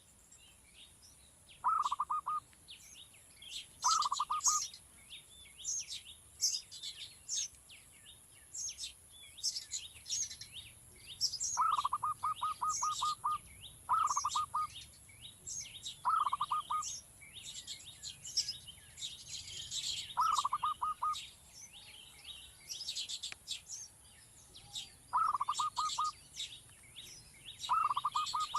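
Small birds chirping: a steady run of quick, high chirps, broken every few seconds by a short, lower trill of rapid repeated notes.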